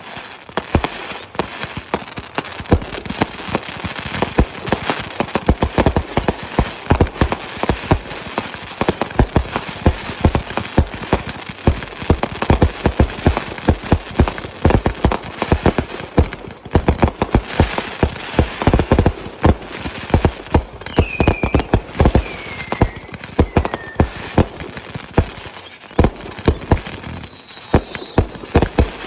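Fireworks going off in a rapid, unbroken barrage of bangs and crackles. Whistles that fall in pitch cut through it again and again.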